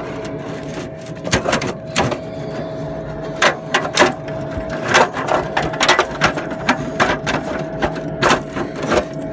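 Metal vent cap being worked back onto a pellet stove's vent pipe: irregular sharp clicks and scrapes of metal on metal. Under them runs the steady hum of the stove's exhaust fan during its clearance cycle.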